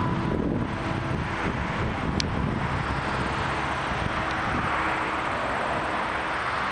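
Boeing 777-200LR's GE90 turbofan engines running at power as the jet passes close by: a steady jet noise with a faint whine in it.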